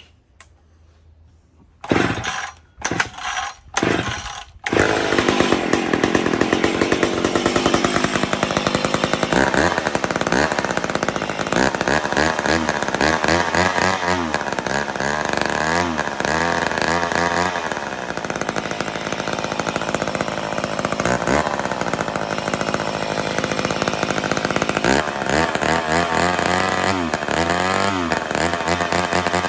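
McCulloch Mac 10-10 two-stroke chainsaw being fire-started: a few short sputters, then it catches about five seconds in and runs, revved up and down several times between spells of steadier running.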